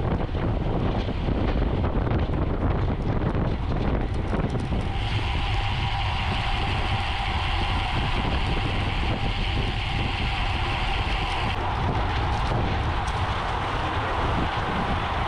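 Wind rushing over the microphone of a camera riding along on a racing bicycle at speed, with a steady high hiss joining in from about five seconds in until about twelve seconds.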